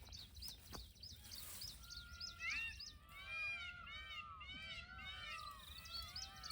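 Wild birds calling: high repeated chirps at first, then from about two seconds in many short rising-and-falling calls overlapping one another.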